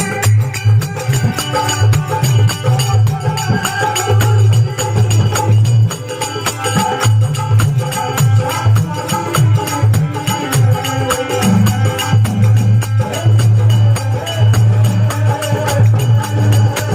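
Indian folk devotional music: a driving dholak drum beat with jingling hand percussion and a melody line over it.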